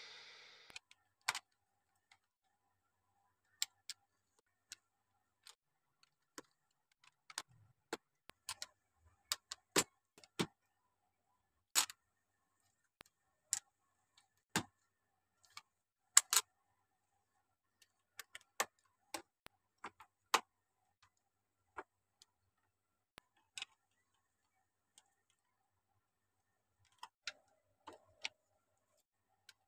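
Plastic Lego bricks clicking and snapping together as a model is built by hand: sharp, scattered clicks, irregular and about a second apart, with short pauses between.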